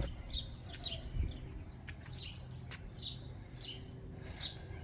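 Small birds chirping: short, high chirps that slide downward, repeating about every half second, with a few faint clicks among them.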